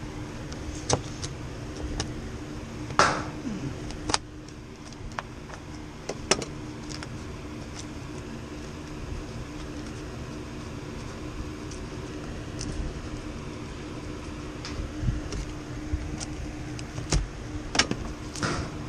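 Scattered clicks and knocks over a steady hum, with a couple of sharper knocks about three seconds in and a cluster near the end.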